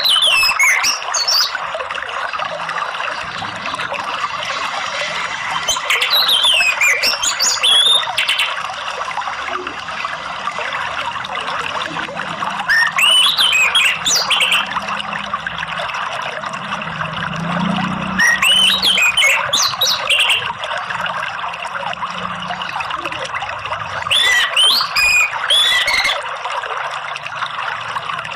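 Orange-headed thrush singing short whistled phrases of quick rising and falling notes, about every six seconds, over a steady rush of flowing water.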